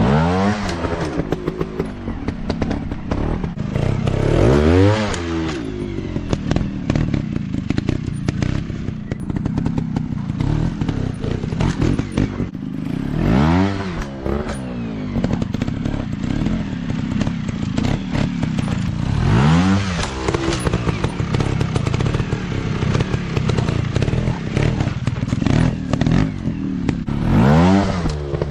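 Off-road motocross dirt bike engines revving hard, the pitch rising and falling in repeated bursts of throttle, with clattering and knocking throughout.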